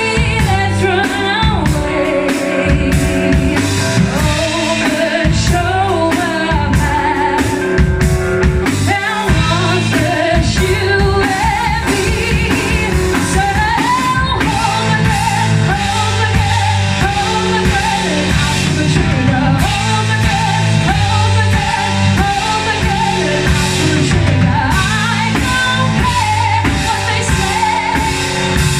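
Live band performing a song: a woman singing lead over drum kit, bass and guitar, with a steady beat.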